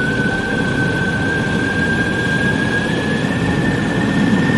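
Motorcycle on the move: engine running with wind rushing past, and a single high whine that slowly rises in pitch.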